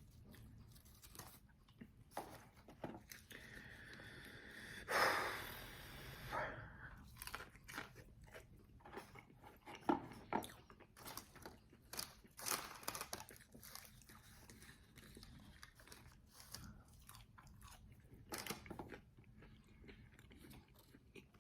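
Close-up mouth sounds of someone eating extra-well-done fried chicken wings: irregular crisp crunching bites and chewing. There is one louder, longer noise about five seconds in and a sharp click about ten seconds in.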